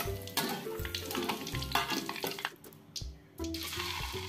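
Metal slotted spoon scraping and clicking against a steel wok as fried peanuts are scooped out of the hot oil. Near the end, after a short quiet gap, hot oil sizzles steadily around frying tofu.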